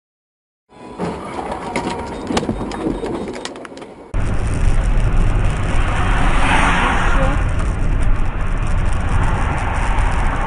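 Dash-cam audio of a car driving: engine and road noise with scattered clicks. About four seconds in it cuts abruptly to a louder, steady low road rumble.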